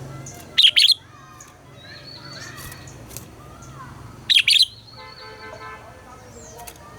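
Red-whiskered bulbuls singing: two loud, short double-note phrases, one about half a second in and another past the middle, with softer warbling and gliding notes between them.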